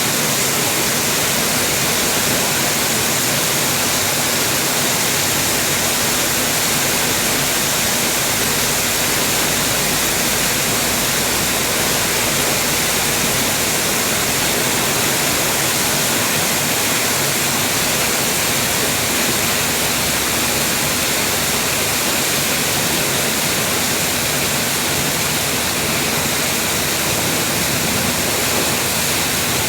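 Heavy rain falling, an even, steady hiss with no breaks.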